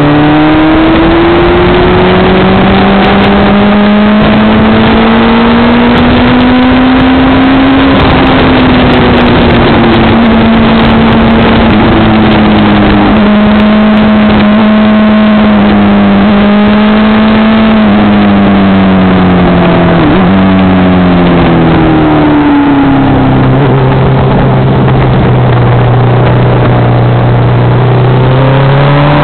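Motorcycle engine at speed on track, recorded by an onboard camera. Its pitch climbs through the gears, drops sharply about two-thirds of the way through, sits low for a few seconds, then climbs again near the end. Heavy wind rush runs under it.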